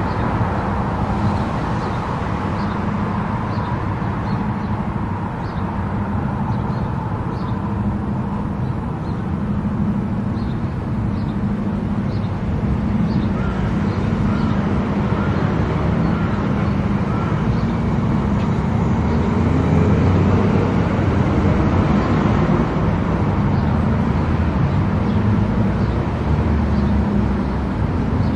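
Car driving at highway speed: steady tyre and road rumble with engine drone, swelling slightly about two-thirds of the way through.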